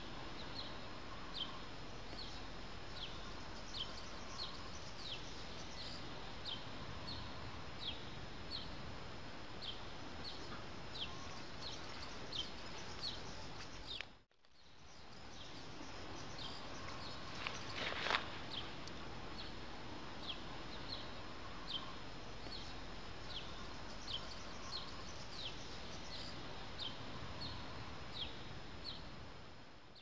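Small bird calling over and over with short, high, downward-sliding chirps, about one and a half a second, over a steady outdoor hiss. The sound drops out briefly about halfway, and a single louder sweeping call comes a few seconds later.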